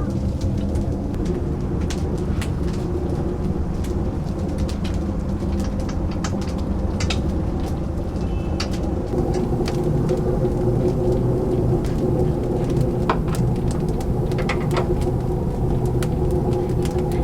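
Steady low hum of kitchen machinery, growing a little louder about nine seconds in, with scattered irregular crackles and pops of chicken cooking.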